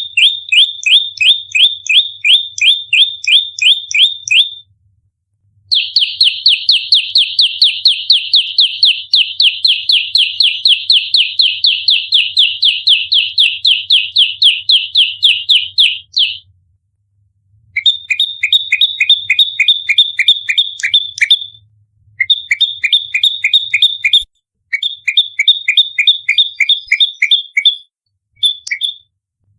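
Prenjak lumut songbird giving its rapid fighting call: short, evenly repeated high notes, about five a second, in long runs broken by brief pauses.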